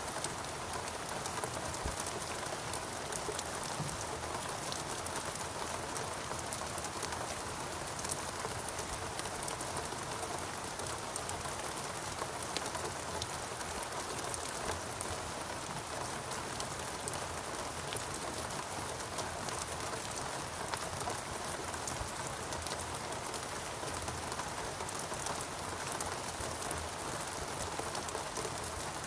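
Steady rain falling, with many single drops striking close by as fine clicks over an even hiss.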